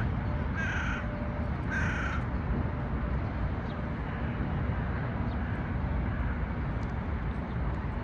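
Three harsh, caw-like bird calls about a second apart in the first two seconds, then only a steady low background rumble.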